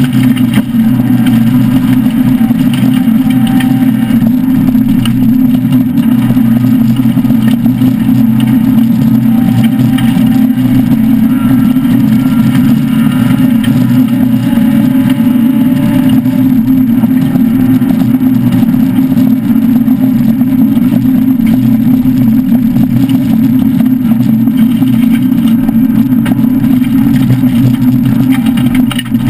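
Citroën SM's Maserati V6 engine running hard at speed, heard from inside the rally car's cabin. It holds a loud, fairly steady pitch throughout.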